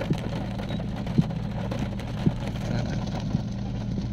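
Car engine idling, a steady low hum heard from inside the cabin, under the hiss of rain on the car, with light knocks about once a second.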